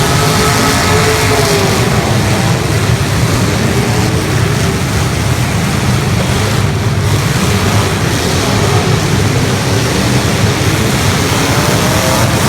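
Engines of several 1980s stock demolition-derby cars running and revving together, a loud, continuous din with rising and falling revs near the start and again near the end.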